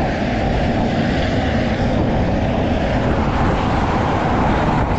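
Steady, loud road noise of passing motor traffic, mixed with wind on the microphone.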